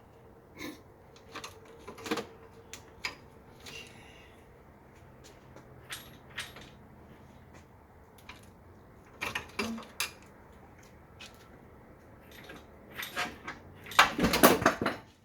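Scattered metallic clinks and knocks of tools and parts, with a louder clattering run of hits near the end.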